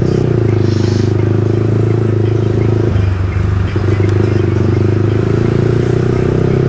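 Yamaha R15 V3's single-cylinder engine running steadily at cruising speed while the motorcycle is ridden, its note briefly dropping about three seconds in before settling back.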